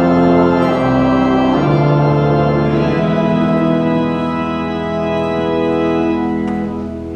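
Church organ playing slow, sustained chords, the chord changing a few times.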